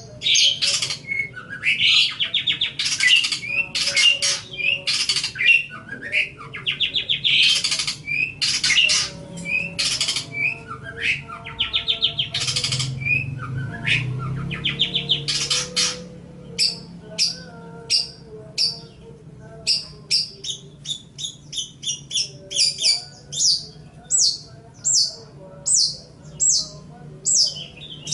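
Long-tailed shrike (cendet) singing. For about the first half it gives a fast, harsh, buzzing chatter of rapid trills, then switches to a run of short, sharp notes repeated about twice a second.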